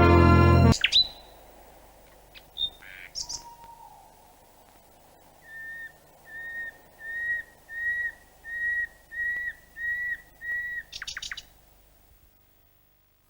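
A bird calling: a few scattered chirps, then a run of eight short, evenly spaced whistled notes at about two a second, ending in a quick flurry of higher chirps.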